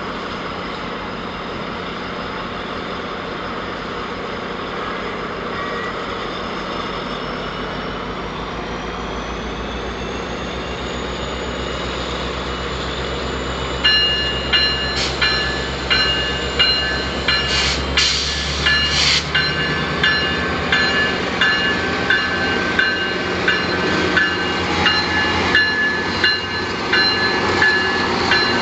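A GO Transit commuter train pulling out, its diesel locomotive running steadily with a faint high whine that rises in pitch as it gets under way. About halfway through, a bell starts ringing about once a second and keeps on.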